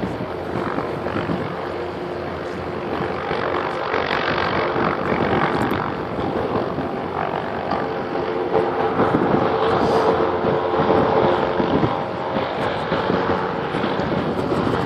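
Helicopter engines and rotors running steadily, with wind on the microphone; the sound grows louder a few seconds in and is loudest past the middle.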